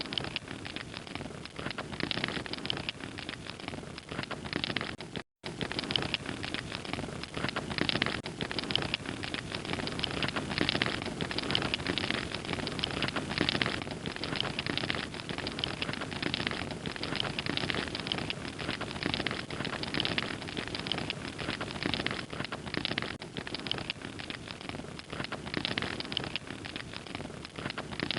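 Wood fire crackling and popping steadily, a dense run of small snaps over a soft hiss, with a momentary dropout about five seconds in.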